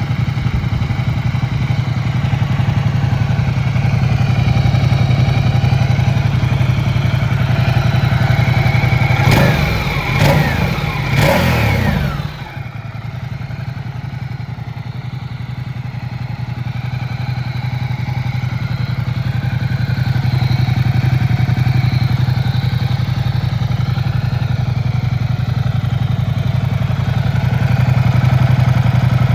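Ducati Diavel 1260 S's 1262 cc Testastretta L-twin engine idling, blipped twice about nine and eleven seconds in, the revs rising and falling back before it settles into idle again.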